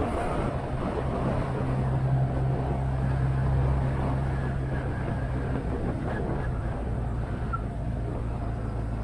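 Motorcycle engine running steadily on the move, over wind and road noise. Its low note is a little stronger between about one and five seconds in.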